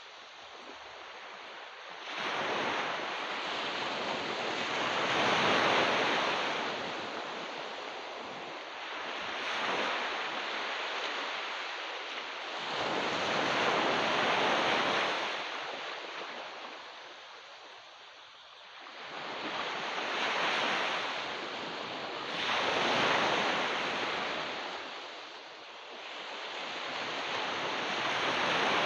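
Ocean waves breaking and washing up a beach, the surf swelling and ebbing in slow surges every four to eight seconds.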